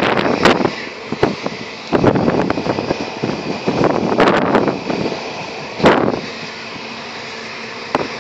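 Running noise of a moving passenger train: uneven rushing surges and sharp knocks, settling into a steadier hum for the last couple of seconds.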